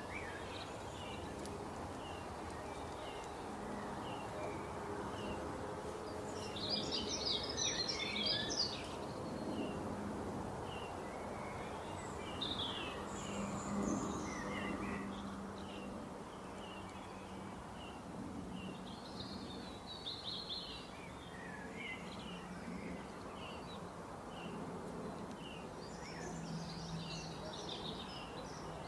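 Songbirds chirping: one bird repeats a short high chirp again and again, while others break in with busier bursts of song several times. Beneath them runs a steady background hiss with a low hum.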